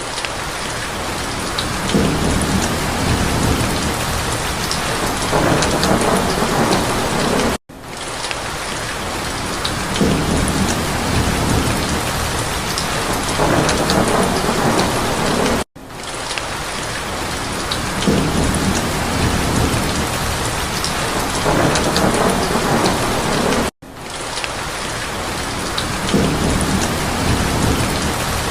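Steady heavy rain with low rolling rumbles of thunder. The sound cuts out for a split second about every eight seconds and starts again the same way, like a repeating loop.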